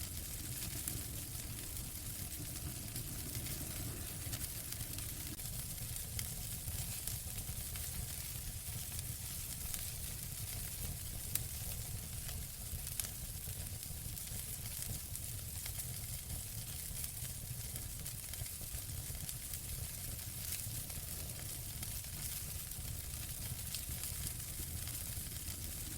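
Wood fire burning in a fireplace: a steady hiss with scattered crackles and pops, a sharper pop about eleven seconds in.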